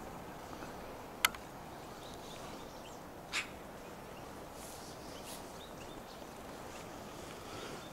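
Faint high chirps of small birds over a steady low hiss, with a very sharp click about a second in and another short, sharp sound a couple of seconds later.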